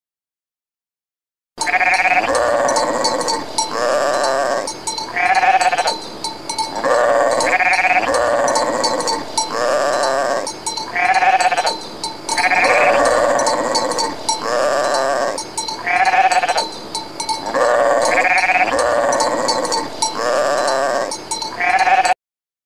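Goats bleating over and over, one call roughly every second, beginning about a second and a half in and cutting off suddenly near the end.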